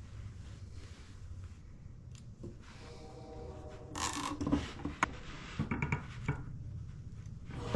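Metal tools and parts being handled on a workbench: rubbing and scraping, then several sharp clinks and clicks about halfway through.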